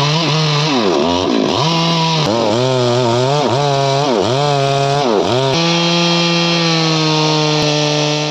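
Stihl MS 382 two-stroke chainsaw running at high revs. Its pitch dips sharply and recovers about once a second, then holds steady for the last few seconds.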